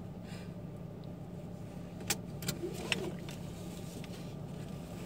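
Car engine idling steadily, heard from inside the cabin as a low hum, with a few light clicks of handling about two to three seconds in.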